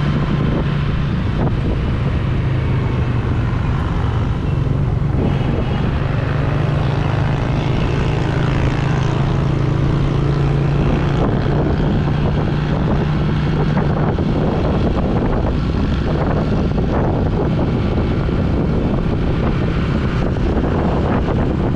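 Yamaha YBR125G's 125 cc single-cylinder four-stroke engine running at a steady cruise while the bike is ridden, with wind rushing over the microphone.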